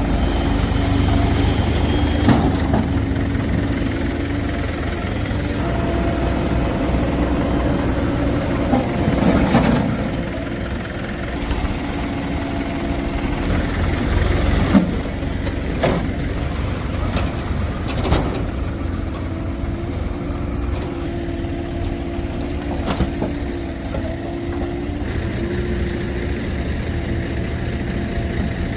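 Heavy diesel engine running steadily, with a few sharp knocks and clanks scattered through.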